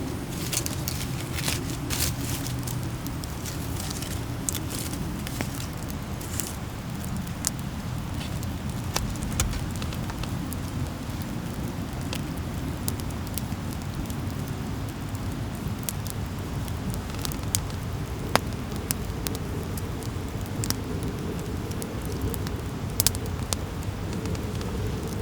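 Wood campfire crackling, with sharp pops at irregular intervals over a steady low rumble of burning.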